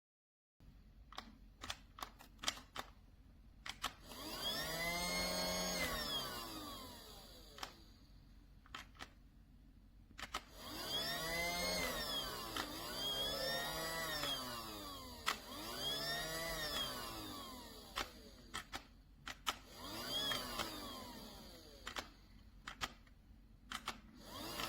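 Small battery motor of a Casdon toy Dyson cordless vacuum spinning up and winding down about five times, each run a whine that rises then falls in pitch over about two seconds. Sharp clicks come between the runs.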